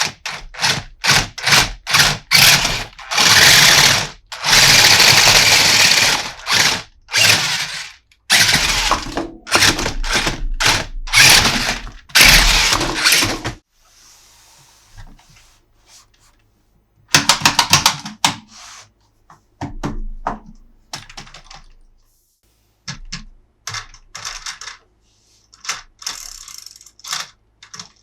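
Plastic toy parts and packaging being handled: a dense run of clicks, snaps and rustling, then quieter scattered clicks with a quick ratcheting rattle about two thirds of the way in.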